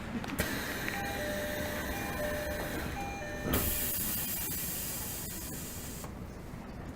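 Tokyo Metro 13000 series train's door-closing chime, a two-note ding-dong heard three times over a hiss. The doors then shut with a thud and a louder hiss about halfway through, and the hiss stops near the end.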